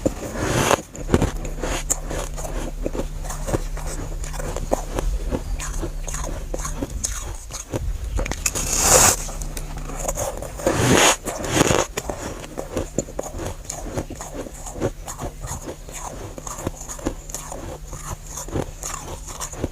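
Close-up biting and chewing of soft, powdery freezer frost: a dense run of dry, crisp crunches. Louder bites come about nine and eleven seconds in.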